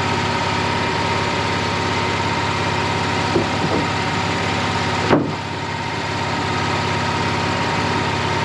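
Sawmill engine running steadily, with a few short knocks partway through, the sharpest about five seconds in.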